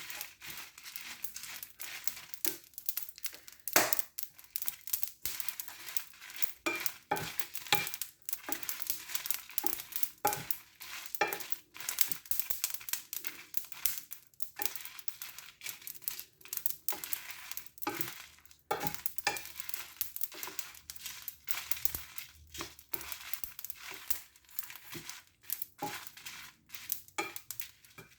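Dry whole spices, dried red chilies and curry leaves being stirred in a hot dry pan with a spatula: constant irregular scraping and rattling, with short crackles as they roast.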